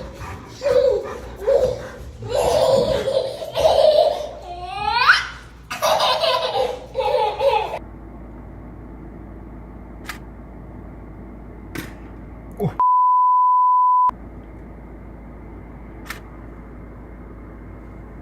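Several seconds of high-pitched laughter and squealing, with one sharp rising squeal, then low steady hum with a few faint clicks, and a steady pure beep tone lasting a little over a second that starts and stops abruptly.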